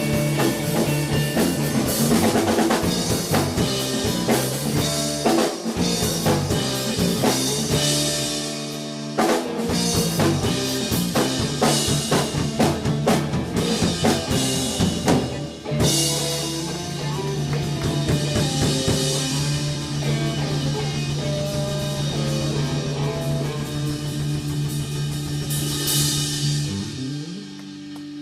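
Live band music with a drum kit and guitar. Busy drumming runs for about the first half, then gives way to long held notes with occasional cymbal swells, getting quieter near the end.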